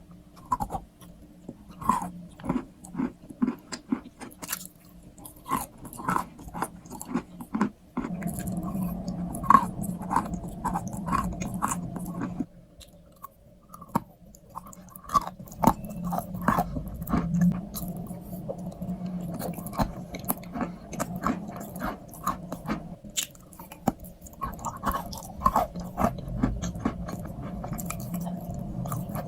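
Close-up chewing of a crunchy strawberry crunch treat: a long run of crisp bites and crunches, with wetter chewing in between.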